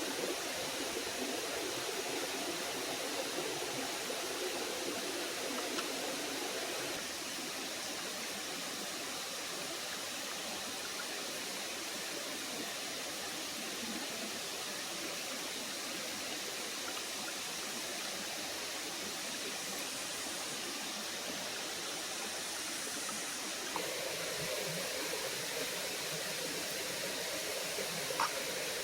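Small forest waterfall and stream rushing steadily. Its sound grows a little thinner about seven seconds in and fuller again near the end.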